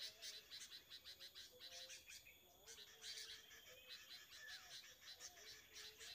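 Faint outdoor chorus of birds calling: rapid high chirps over short, repeated lower warbled notes.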